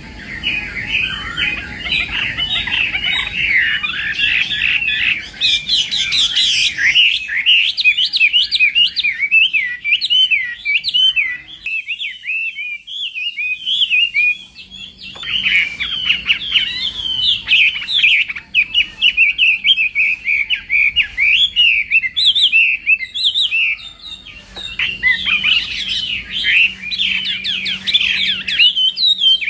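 Chinese hwamei singing a long, rapid, varied song of quick whistled sweeps and chattering notes, which thins out briefly about halfway through before running on.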